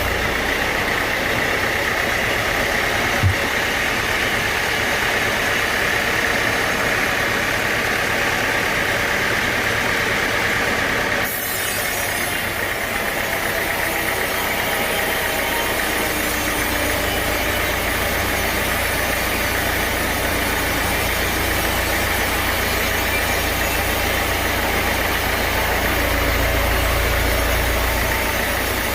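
Sawmill machinery running steadily with an engine-like hum and a steady whine. There is one short knock about three seconds in, and the sound changes abruptly about eleven seconds in.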